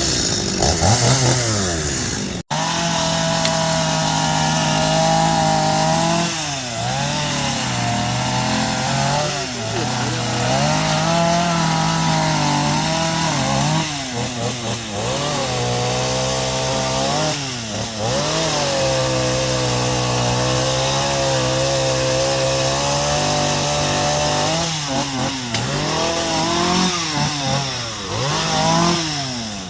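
Chainsaw running hard while cutting wood. The engine holds a steady high speed for stretches, then the pitch sags under load and picks back up several times, with quicker dips and rises near the end.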